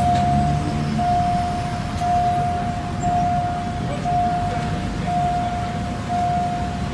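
Railway warning beeper sounding a single steady tone, about seven long beeps, one a second, over a steady low rumble.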